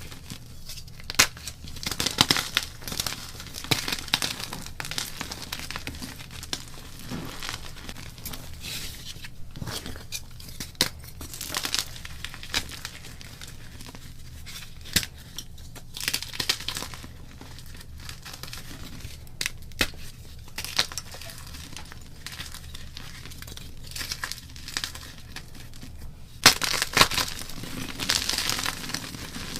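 Block gym chalk being crushed and crumbled by hand: a crunchy crackling, broken by sharp snaps as pieces break, with louder bursts near the start and near the end.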